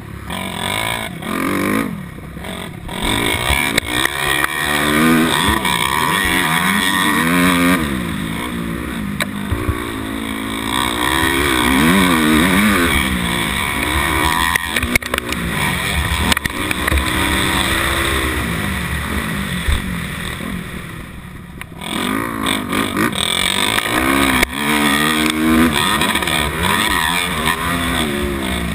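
250 cc motocross bike engine being ridden hard, its pitch climbing and falling again and again as the rider works the throttle and gears. The engine note drops away briefly near the start and again about three-quarters through, as the throttle is closed.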